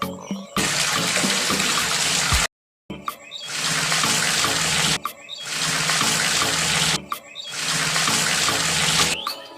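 Rushing water in four spells of about two seconds each, an even hiss like water pouring or spraying, over faint background music.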